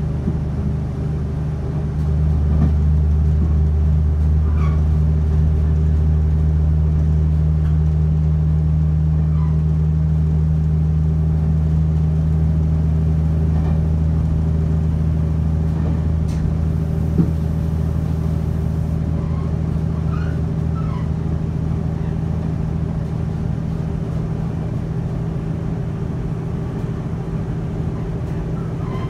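Passenger train running at speed on electrified track, heard from inside the carriage: a steady low rumble and drone that gets louder about two seconds in and then slowly eases, with a few faint clicks now and then.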